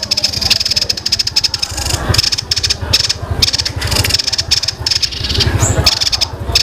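Songbird giving a rapid-fire chattering song, a fast run of sharp repeated notes, broken every second or so by short pauses.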